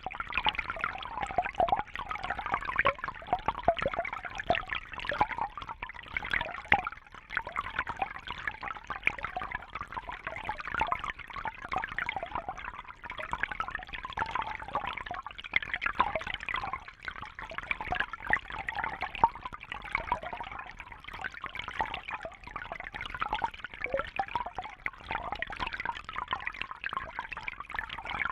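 Water trickling and splashing steadily, a continuous busy patter with no pauses.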